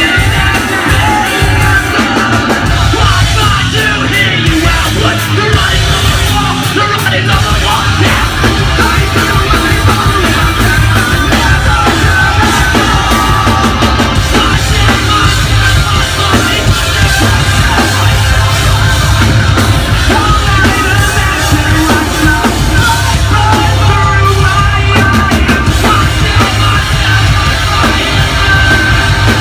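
Post-hardcore band playing loud live: drums, bass and guitars with yelled vocals over them.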